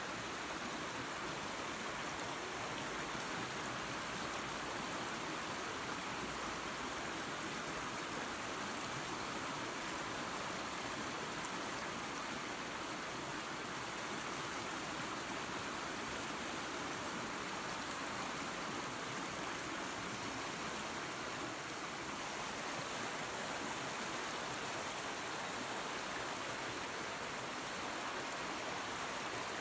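Small waterfall spilling into a creek: a steady, even rush of running water.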